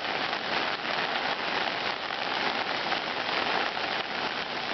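Steady rain from a hurricane falling on the ground and surfaces near the microphone: an even hiss of many drops.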